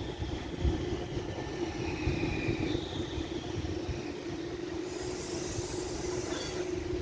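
Tram running on its track, with a steady hum, faint high whining tones in the first few seconds and a brief high hiss about five seconds in.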